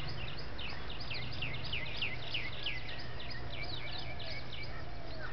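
Bird calling outdoors: a quick, steady series of short high chirps, each falling in pitch, several a second, over a low steady hum of ambient noise.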